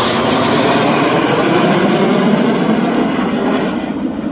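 Jet aircraft flying past during an aerobatic display, a loud rushing roar that holds and then starts to fade near the end.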